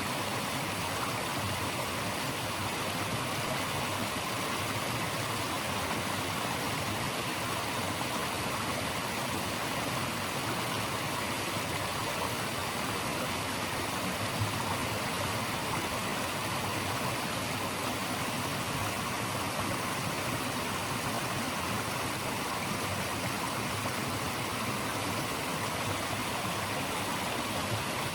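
Running water rushing steadily: an even, unchanging hiss like a stream or small falls.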